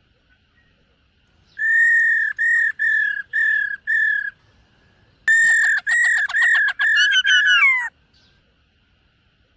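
Black-throated laughingthrush singing: two phrases of clear whistled notes, the first a run of about six even notes, the second a similar run that quickens and ends in a falling glide.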